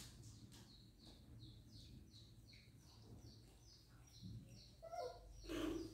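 A bird chirping in a quick regular series, about three short high notes a second, each dropping in pitch. Near the end a louder, lower call cuts in.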